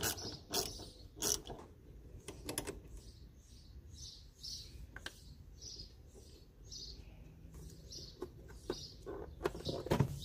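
A bird chirping over and over, a short high falling note about twice a second, with sharp clicks and knocks in the first few seconds and again near the end.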